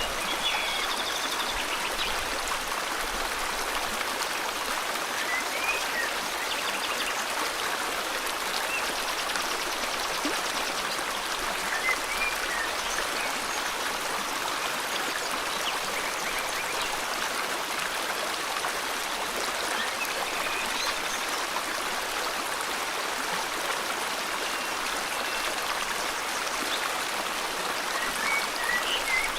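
A river flowing steadily, its water rushing evenly, with a few brief bird chirps here and there above it.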